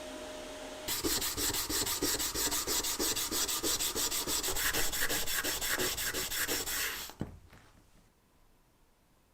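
Rapid back-and-forth abrasive rubbing by hand, about five strokes a second, starting about a second in after a steady hiss. The rubbing stops abruptly about seven seconds in, followed by a single click.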